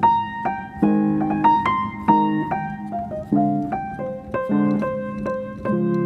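Piano music: single notes and chords struck about once or twice a second.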